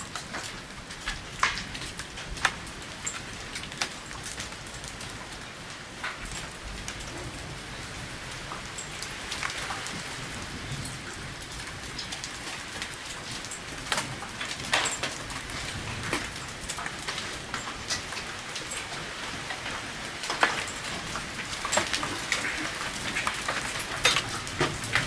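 Large hailstones, some as big as eggs, falling and striking hard surfaces: irregular sharp knocks and cracks over a steady hiss of heavy rain.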